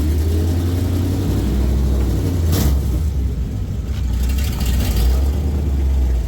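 Car engine running with a steady low exhaust rumble, its pitch wavering as the throttle changes while the car pulls away. There is one brief sharp sound about two and a half seconds in.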